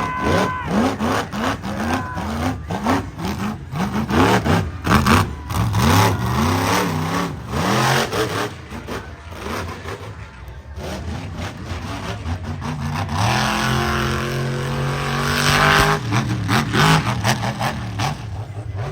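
Monster truck engine revving hard in quick repeated blips for several seconds, then held at high revs for a few seconds near the end, with sharp bangs mixed in.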